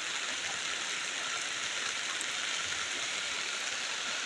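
Steady rushing of a rain-swollen river in flash flood, a continuous even roar of fast floodwater.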